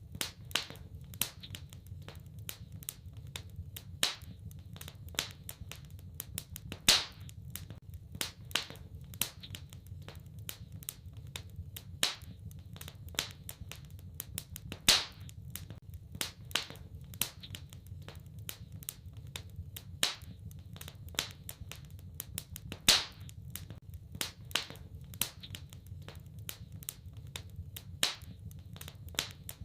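Wood fire in a fireplace crackling: irregular sharp pops several times a second, a handful of them much louder, over a low steady rumble.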